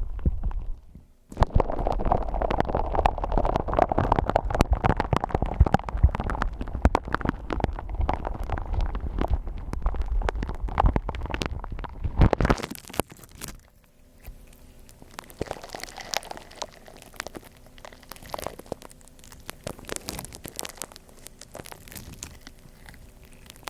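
Gritty shaved-ice slime being squeezed and worked by hand close to a binaural microphone, giving dense crunching, crackling clicks over a low rumble. After a brief pause just after the start it is loud and busy for about twelve seconds, then turns softer with sparser crackles.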